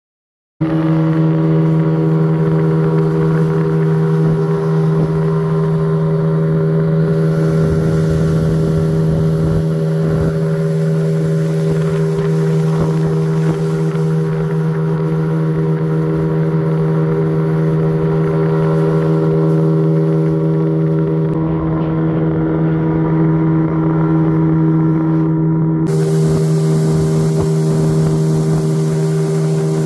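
A 20 hp Suzuki outboard motor running steadily at one constant engine pitch. It cuts in abruptly just after the start.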